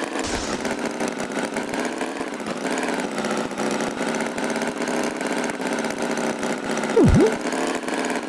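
Cartoon tractor engine sound effect running steadily with an even chugging pulse. About seven seconds in, a short loud sound effect swoops sharply down in pitch and back up.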